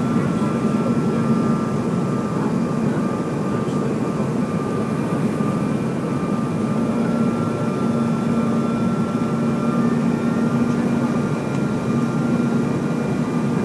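Jet airliner engine noise: a steady drone with a constant hum, unchanging in level throughout.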